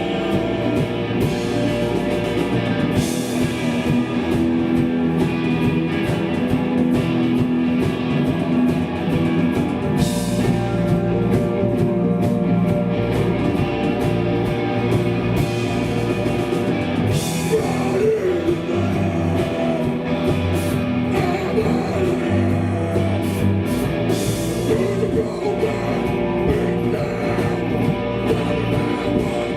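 Hardcore punk band playing live: loud electric guitar with vocals over it.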